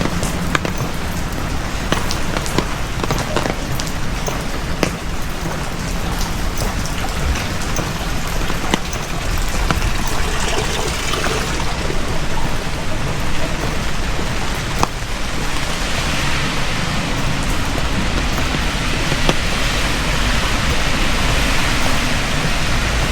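Heavy typhoon rain falling steadily, with many sharp drop ticks through it. It gets a little heavier in the second half.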